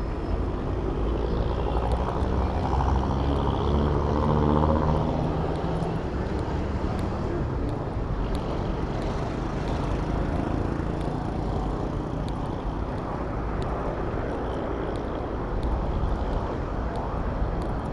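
Steady street traffic noise heard from a moving bicycle, with a low rumble throughout. A motor vehicle's engine rises and passes close by in the first few seconds.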